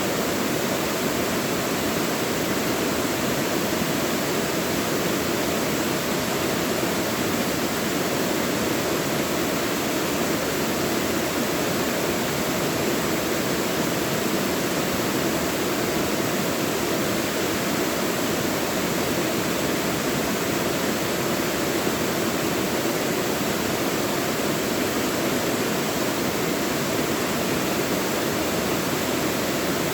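Mountain valley stream rushing steadily over rocks, a continuous even splashing with no breaks.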